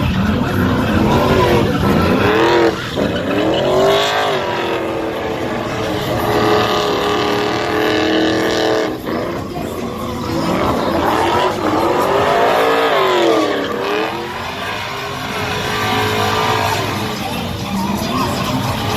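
SUV engine revving hard through burnout donuts, its pitch sweeping up and down several times and holding high for a few seconds in the middle, with tyres squealing.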